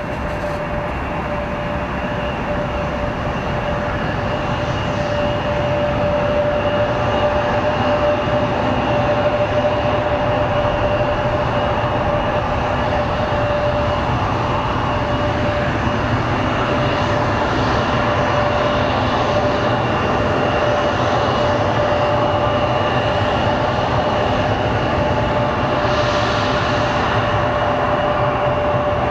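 Airbus A319 jet airliner's CFM56 turbofan engines running: a steady rumble with a constant whine. It grows louder over the first several seconds as the aircraft nears, then holds steady.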